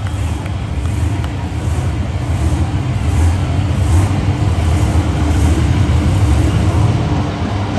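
Monster truck engine running hard in an arena, a heavy low rumble that swells louder a few seconds in and eases off near the end.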